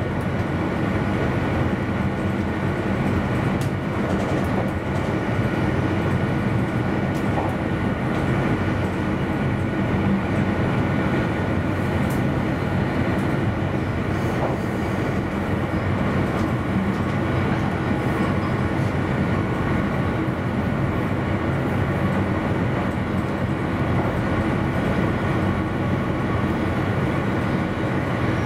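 Electric passenger train running along the line, heard from inside the driver's cab: a steady rumble of wheels on rail with a constant hum and an occasional faint click.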